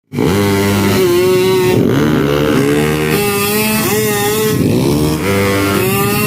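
Drag-racing motorcycle engines revving, the pitch rising and falling several times in quick blips.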